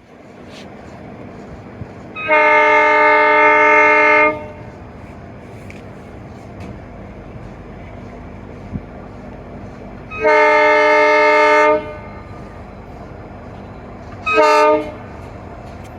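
Locomotive air horn sounding three times over the steady rumble of a moving train: a long blast, a slightly shorter one about six seconds later, and a short toot near the end.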